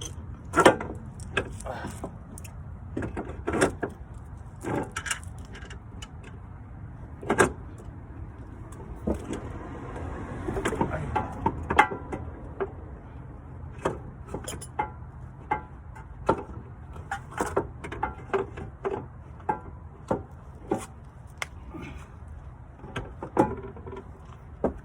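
Irregular sharp clicks and knocks of hand tools and metal parts during fitting of a replacement shock absorber, with a quicker run of clicks about ten seconds in.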